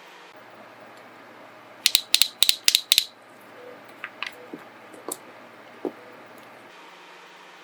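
About ten sharp clicks in quick pairs over about a second, then a few lighter clicks and taps: small nail-art tools or product containers being handled.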